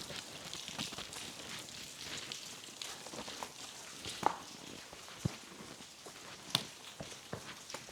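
Footsteps crunching through dry leaves and over rock, with a few sharp knocks about halfway through.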